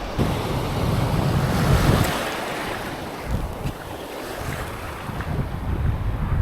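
Surf washing onto a sandy beach: a wave swells and breaks about two seconds in, then eases off before the next one builds near the end, with wind buffeting the microphone.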